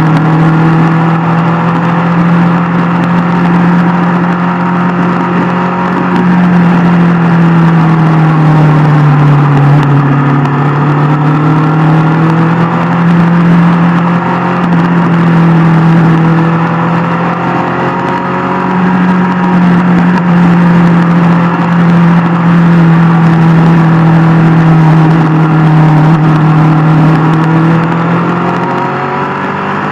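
Inline-four superbike engine running steadily at cruising revs. The note sags a little about a third of the way in, then climbs again near the end.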